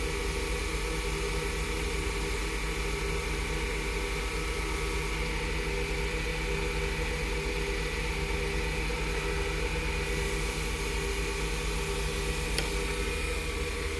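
Wood lathe running steadily at reduced speed, about 1,000 RPM, spinning a padauk workpiece as wax is buffed onto it: an even motor hum with hiss. A single faint click comes near the end.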